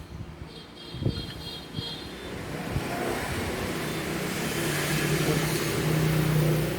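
A motor vehicle passing, its engine hum and road noise building over several seconds and loudest near the end. A faint high chirping sounds in the first two seconds.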